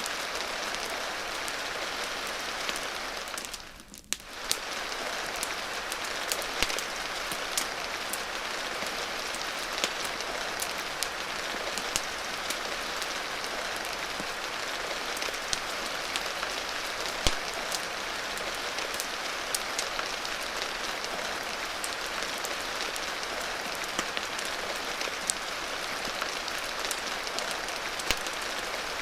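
Steady rain hiss with scattered sharp pops and crackles from a fireplace mixed in. About four seconds in, the whole sound briefly drops away and then comes back.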